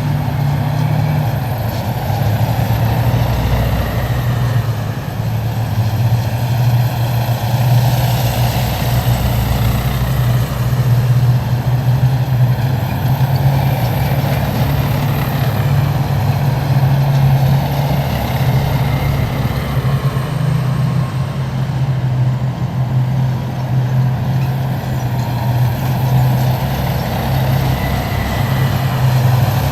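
A column of heavy military vehicles driving past, their engines making a loud, steady low drone that never lets up.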